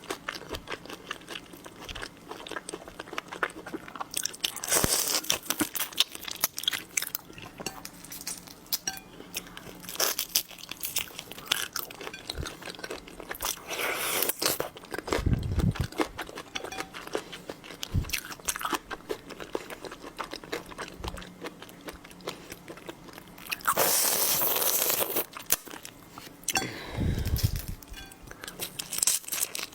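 Close-miked eating of seafood: repeated crunching, biting and chewing, with a longer rushing, slurp-like burst about three-quarters of the way through.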